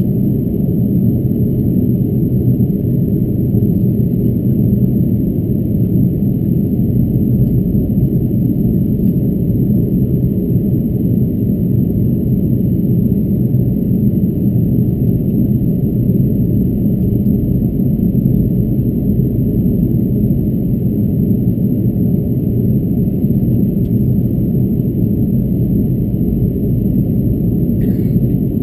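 Steady, low cabin rumble inside an Airbus A330-223 airliner in flight on approach: engine and airflow noise, even and unchanging.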